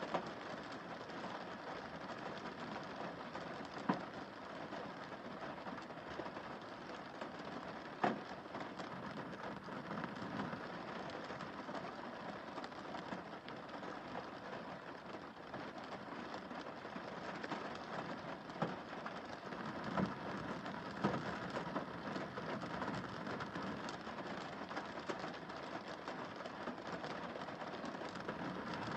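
Steady rain falling on a car windscreen, with a few louder single drops striking the glass.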